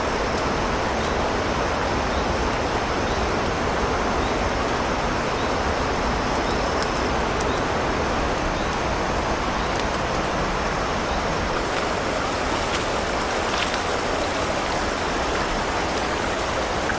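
Steady rushing of flowing water, an even hiss with no let-up. Faint high ticks repeat about twice a second through the first few seconds.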